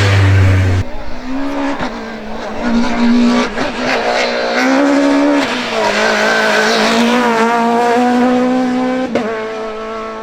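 Citroën Xsara Kit Car rally car's engine at full throttle, its pitch climbing and dropping again and again as it revs up and shifts. A loud low drone cuts off in the first second.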